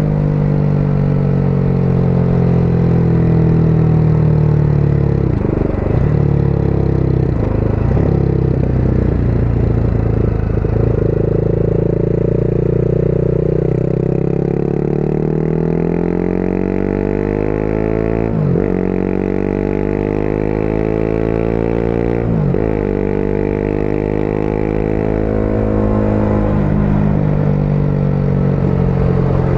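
Motorcycle engine heard from on the bike, slowing with falling revs over the first half, then accelerating. It changes up twice in quick succession, the revs dropping sharply and climbing again each time, before settling into a steady cruise, with road and wind noise underneath.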